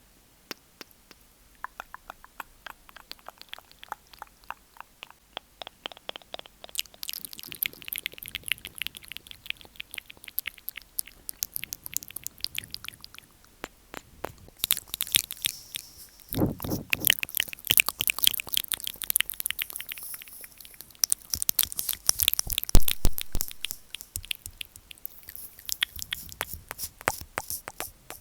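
Close-miked ASMR mouth sounds: rapid wet tongue clicks and lip smacks. They are sparse and quiet for the first few seconds, then turn dense and quick about seven seconds in, and are loudest in the second half.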